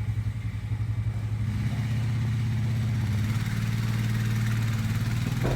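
An engine running steadily with a fast pulsing hum; its sound fills out a little about a second and a half in.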